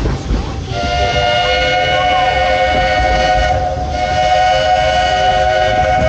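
Steam locomotive whistle of the Walt Disney World Railroad sounding one long, steady blast of several tones at once, starting about a second in, over the low rumble of the running train.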